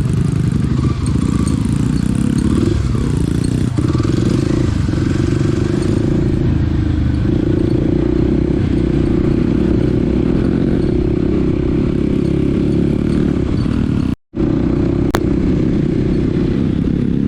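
Small dirt bike's engine running steadily under way, its pitch shifting slightly with the throttle. The sound cuts out completely for a moment about fourteen seconds in.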